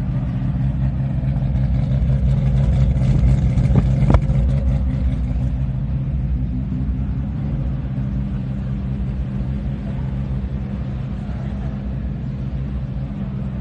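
A Toyota Supra MK4's 2JZ straight-six engine running at steady low revs, swelling a little over the first four seconds. There is a single sharp crack about four seconds in.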